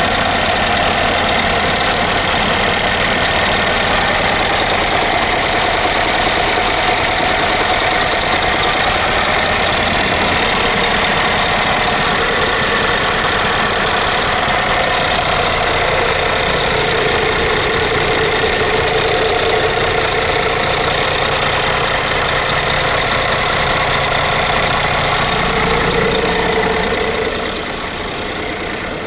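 Scania P400's DC13 inline-six diesel engine running steadily. Its note shifts slightly about sixteen seconds in, and it becomes quieter about twenty-seven seconds in.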